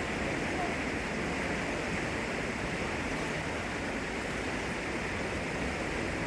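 Kano River in flood, a swollen, fast current rushing: a steady, unbroken noise of moving water.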